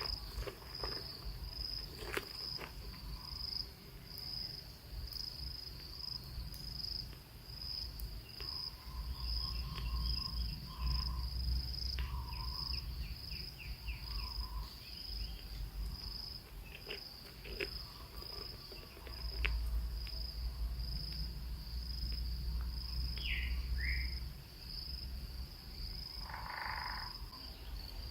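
An insect keeps up a steady, pulsing high trill throughout. A bird gives scattered short chirps over it, with two quick calls a little before the end. Low rumbles come and go twice, the loudest sound in the stretch.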